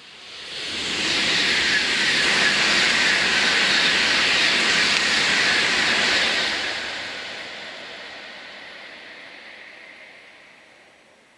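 A Tokaido Shinkansen train passing at high speed: a loud rushing hiss with a rumble beneath swells up within about a second, holds for about six seconds as the train goes by, then fades away.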